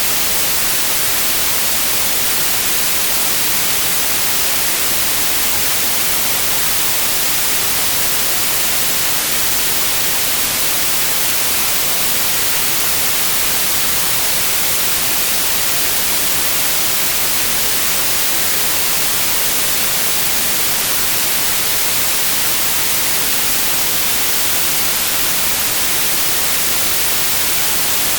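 Synthetic white noise: a steady, unchanging hiss across the whole range, loudest in the highs.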